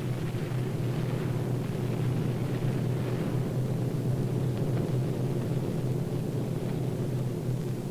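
Steady low drone of aircraft engines, even and unbroken.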